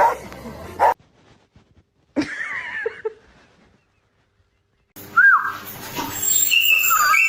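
A dog whimpering and yipping in short high, sliding calls, heard in separate snippets with sudden cuts and a silent gap between them.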